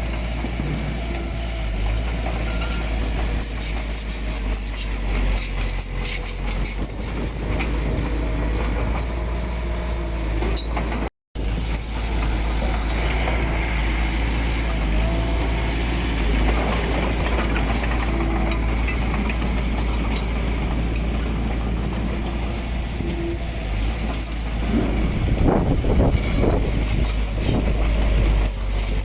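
Heavy earthmoving machinery's diesel engine running steadily with a deep rumble, with scattered metallic clanks and rattles that grow denser near the end. The sound cuts out for a split second about 11 seconds in.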